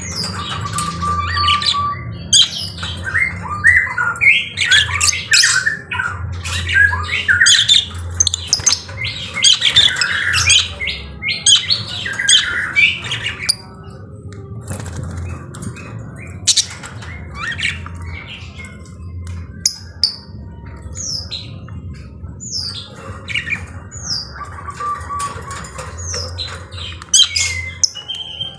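Lovebirds chattering with rapid, shrill squawks and chirps, dense at first and sparser after about halfway through, over a steady low hum.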